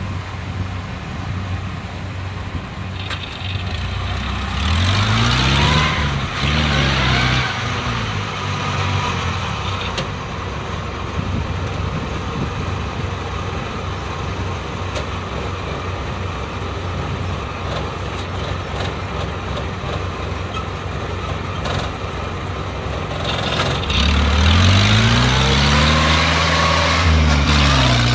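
Diesel engine of rice-harvesting machinery running steadily, its pitch rising and falling as it revs about five seconds in and again near the end.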